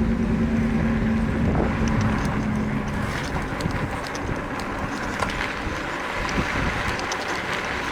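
Riding noise from an e-bike on the move: wind on the microphone and tyre hiss, with scattered light clicks and rattles. A steady hum fades out in the first two to three seconds.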